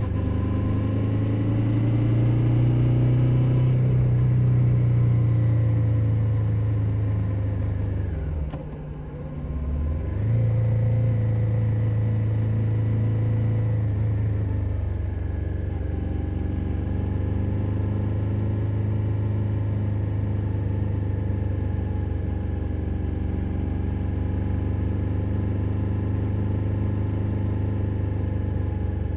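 2021 Suzuki SV 650's V-twin engine running under way on a ride, heard from under the seat. The note dips sharply and drops in level about nine seconds in, then picks up again and settles into a steady cruise.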